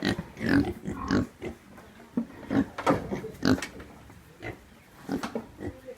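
Pigs grunting in a string of short calls, about a dozen over a few seconds, a few of them higher-pitched.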